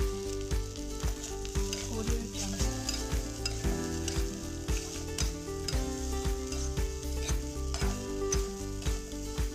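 Rice frying in a metal wok, with a steady sizzle and the scrape of a spatula stirring it. Under it runs background music with held notes and a regular beat about twice a second.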